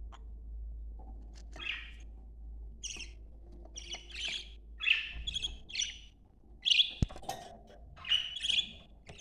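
Budgerigars chirping and chattering in quick bursts of short high calls, with a sharp click about seven seconds in.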